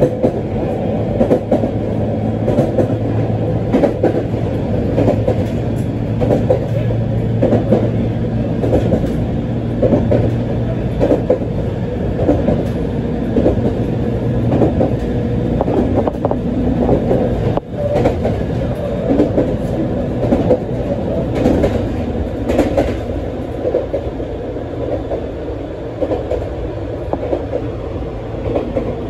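Running noise of an ET127-series electric train heard from on board: wheels clicking and clattering over rail joints over a steady low hum, which fades about two-thirds of the way through.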